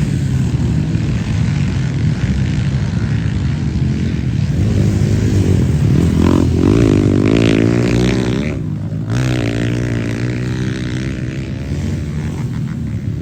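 Dirt bike engines running and revving on a motocross track, the pitch rising and falling, with steady rushing noise underneath.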